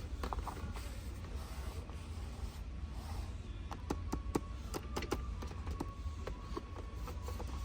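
Scattered light clicks and taps of plastic toys and packaging being handled, over a steady low hum.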